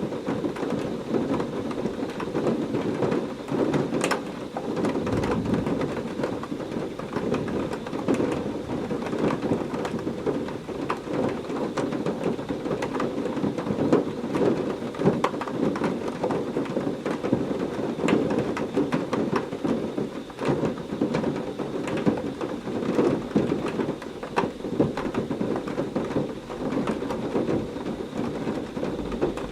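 Heavy rain falling steadily, with many sharp individual drops striking close by, and a low rumble of thunder underneath.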